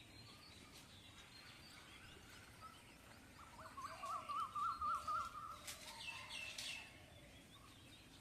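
A small bird singing a rapid warbling trill for about two seconds, followed by a couple of short, sharper calls, over faint outdoor background noise.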